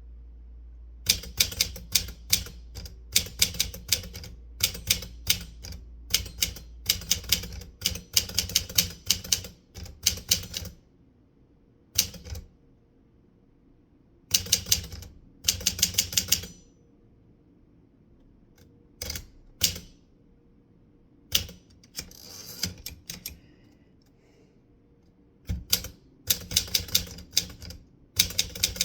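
Typewriter keys striking in quick runs of sharp clacks, bursts of a word or a few words separated by short pauses.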